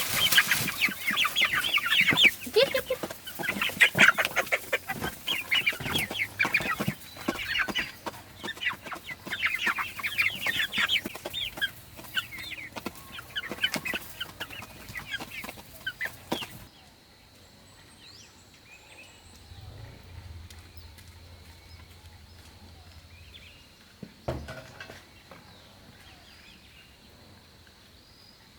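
Chickens clucking and squawking in quick, repeated calls for about the first half. The sound then cuts off suddenly to a faint, steady, high insect drone with a single thump a few seconds before the end.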